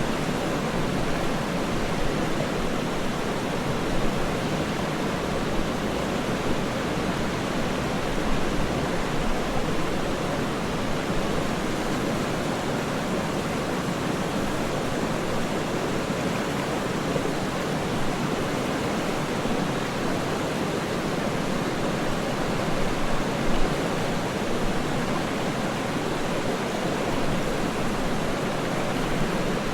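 Waterfall rushing steadily: an even, unbroken wash of falling water, deepest in the low-middle range and softer in the highs.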